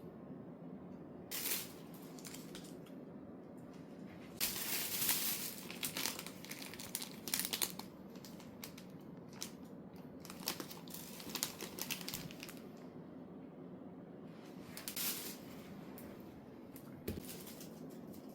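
Crinkling and rustling in several irregular bursts over a low steady hum.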